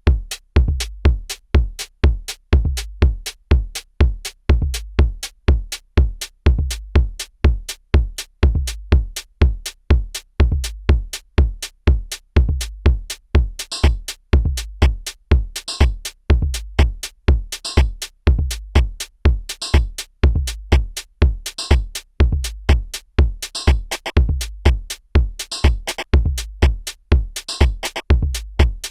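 Korg drumlogue drum machine playing a pattern as it is being built up: a steady kick about twice a second with sharp clicky hits between. About halfway through, a brighter, noisier hit joins about every two seconds.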